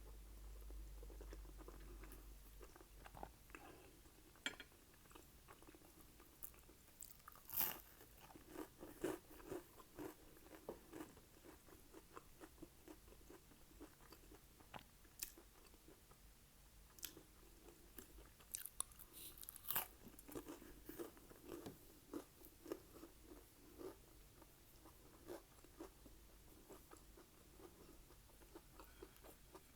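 Quiet, close-miked eating of spaghetti and over-toasted garlic bread: chewing with irregular bites and crisp crunches, the loudest crunches about 8 and 20 seconds in.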